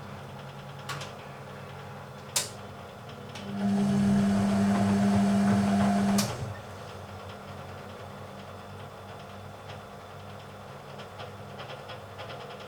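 1980 Hoover Keymatic A3112 washing machine in its main wash: two light clicks, then the drum motor runs with a steady hum for about two and a half seconds, turning the stainless steel drum, and stops, over a low steady background hum.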